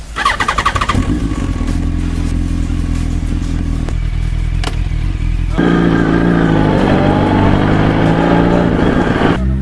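2008 Yamaha YZF-R1's inline-four running through a Yoshimura dual exhaust, with a steady engine note. It gets suddenly louder about halfway through, the note wavering as the engine is worked harder, then cuts off abruptly just before the end.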